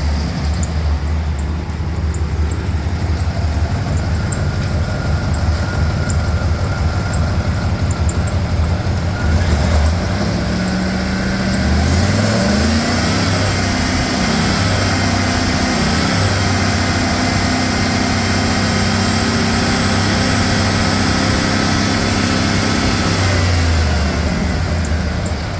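GM 4.8-litre V8 engine idling, then revved up about ten seconds in and held at a raised speed, dropping back to idle near the end.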